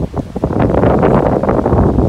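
Strong squall wind gusting and buffeting the microphone, getting louder about half a second in.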